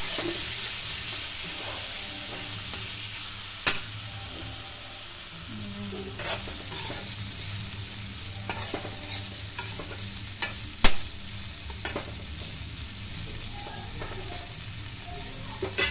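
Sliced bitter gourd sizzling steadily as it fries in oil, stirred with a metal spatula that scrapes and clicks against the pan, with two sharp knocks about four and eleven seconds in.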